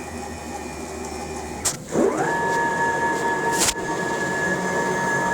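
CNC router's stepper motors ramping up and running at a steady speed, a machine-like whine, as the axis moves over to the tool-length sensor after auto-zeroing. A sharp click comes just before the whine starts and another about two seconds later.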